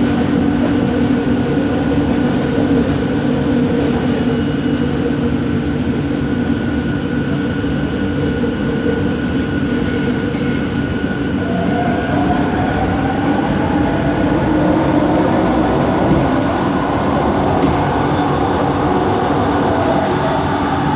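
Bombardier Innovia ART 200 metro train running, with a steady rumble of wheels on track under several steady motor hums. About halfway through, a whine rises gradually in pitch from the train's linear induction motor.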